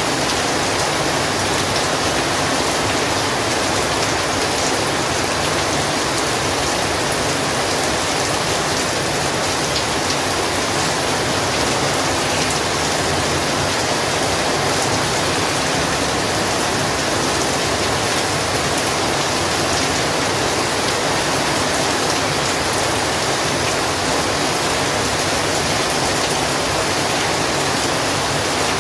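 Heavy rain falling steadily, a dense even hiss of drops with faint individual drop ticks.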